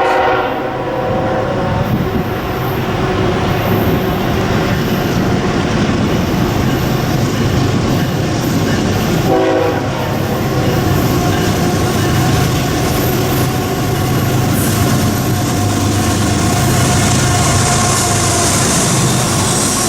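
Train passing at close range, with the steady noise of wheels on rail and a diesel locomotive's engine throughout. The locomotive's air horn chord trails off about two seconds in, and a short horn note sounds about halfway through.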